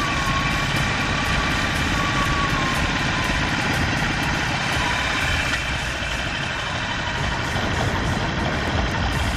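Harley-Davidson Sportster 48's air-cooled V-twin engine running steadily at low revs under the rider, a dense low rumble of exhaust pulses.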